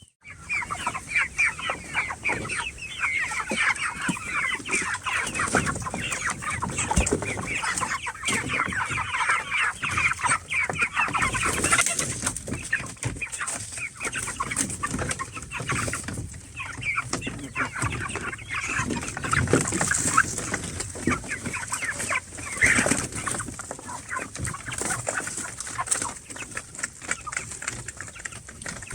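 A flock of chickens clucking and chattering continuously, with scattered knocks and rustles.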